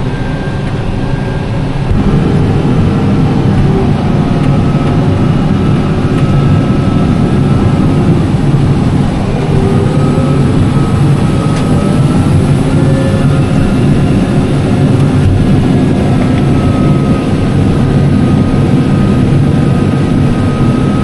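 Heavy farm machinery running steadily during harvest, a loud drone with a faint whine over it; it gets louder about two seconds in.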